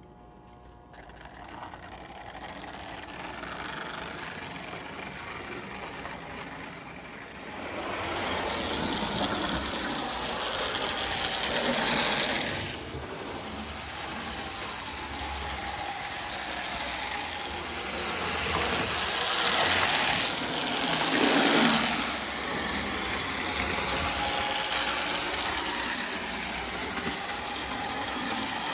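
Marx 2124 Budd car's O-gauge electric motor and wheels running on toy train track, a steady whir and rattle that builds up over the first few seconds. It swells louder twice, about twelve seconds in and again around twenty seconds in, as the car passes close.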